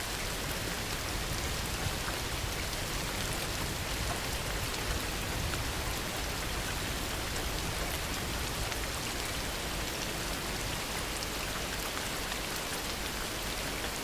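Heavy, steady rain falling, with many small drops pattering on surfaces. There is no thunder.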